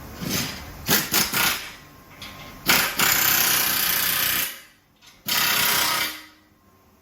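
Shop power tool run in several short bursts, then in two longer steady runs of about two seconds and one second, each stopping quickly.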